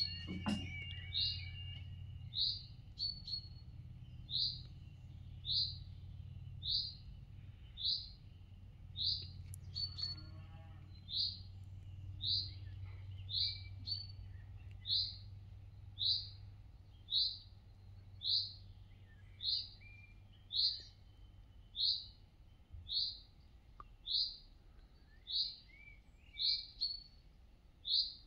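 A bird repeats one short, high chirp about once a second. Near the start, the level crossing's warning alarm sounds its pulsing tones and cuts off about a second in, as the barriers come down.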